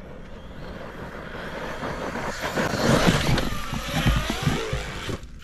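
ARRMA Kraton EXB V2 RC monster truck running off-road, its 2200 kV brushless motor whining and changing pitch over the noise of the tyres. It grows loudest about three seconds in and cuts off suddenly near the end.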